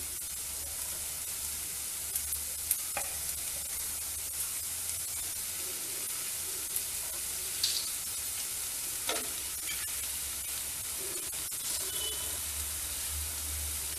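Onion-tomato masala frying in a nonstick pan, a steady sizzle, as squeezed, boiled soya chunks are dropped in, with a few soft taps scattered through.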